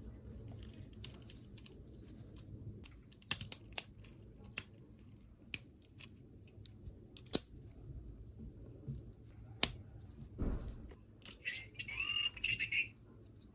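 Hard plastic toy parts being handled: a string of sharp clicks and taps, a dull knock about ten seconds in, then a short rattle near the end.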